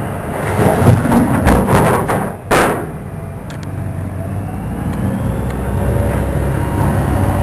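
Motorboat engine running with a steady low hum under rough wind buffeting. There is a sharp, loud thump about two and a half seconds in.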